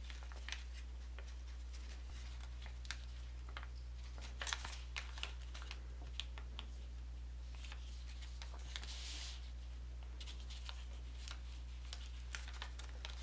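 Sheet of origami paper being handled and creased: scattered faint crinkles, taps and a brief rustle, over a steady low electrical hum.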